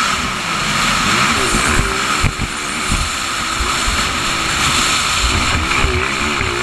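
Motocross motorcycle engine running hard, its pitch rising and falling as the throttle opens and closes.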